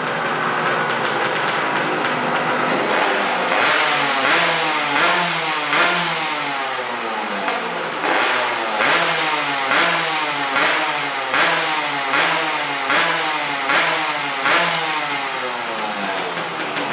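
Yamaha RD135 two-stroke single-cylinder motorcycle engine running, steady for the first few seconds, then revved in quick repeated throttle blips, roughly one every second, each rising and falling in pitch, easing off near the end.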